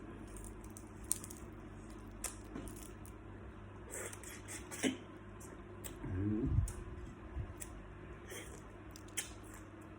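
Salt-baked shrimp being handled and peeled by hand: scattered small clicks and crackles of shell, with a short low vocal sound about six seconds in.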